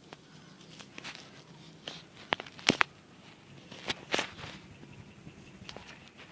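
Handling noises from the mini ceiling fan's installation: irregular light clicks and knocks of parts and tools being handled, sharpest about two and a half seconds in and again around four seconds in.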